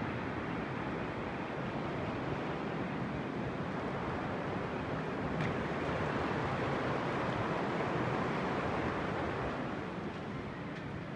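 Rushing floodwater: a steady wash of water noise that grows a little louder about halfway through and eases slightly near the end.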